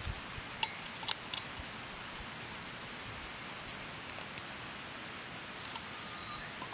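Small wood fire in a Firebox Nano stove burning with a steady hiss and a few sharp crackling pops, three in the first second and a half and one more near the end.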